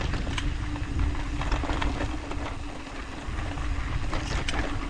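Mountain bike descending rocky trail: tyres rumbling over dirt and rock, with wind buffeting the mount and scattered sharp rattles and clicks from the bike.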